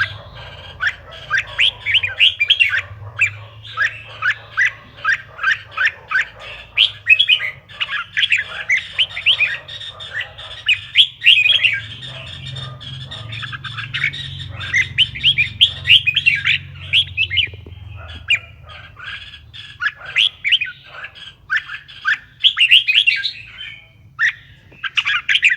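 Red-whiskered bulbul singing: quick chirping notes run together in fast phrases, with brief pauses, over a low steady hum.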